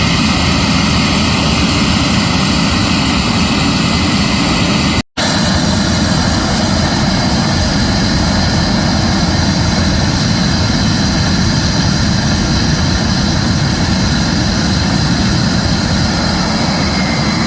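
Handley Page Victor K2's Rolls-Royce Conway turbofan engines running on the ground during an anti-deterioration engine run. It is a loud, steady jet roar with a high whine over it. The sound drops out for a moment about five seconds in.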